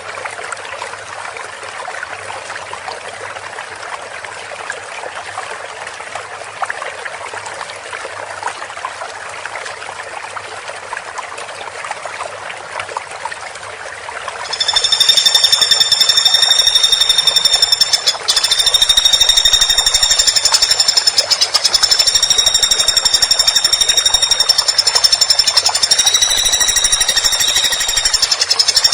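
Woodpecker calls. A quieter dense crackling chatter runs for about half the time, then switches abruptly to a loud, very fast high-pitched trill that goes on to the end with one brief break.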